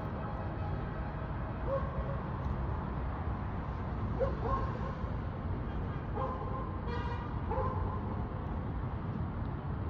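Street ambience: a steady rumble of traffic with a dog barking a few short times, and a brief horn-like toot about seven seconds in.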